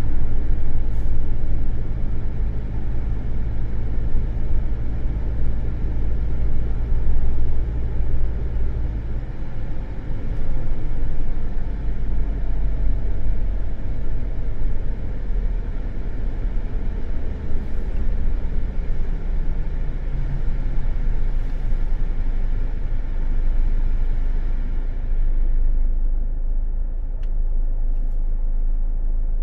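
Car driving, with a steady low engine and road rumble and a hiss above it. The higher hiss fades away near the end.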